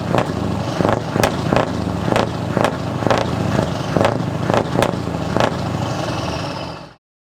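Scania T500 V8 diesel truck engine running with a deep, steady exhaust note, overlaid by short sharp cracks about twice a second. The sound cuts off abruptly near the end.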